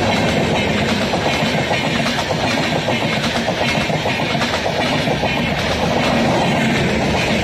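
Indian Railways train passing, its wheels clattering steadily over the rails.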